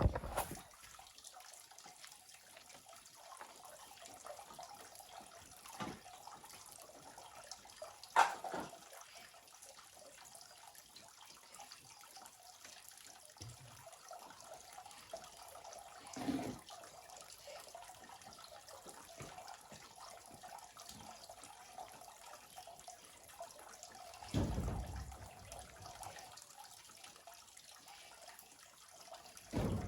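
Steady trickle of running water, with a few louder knocks or bumps about 8, 16 and 24 seconds in.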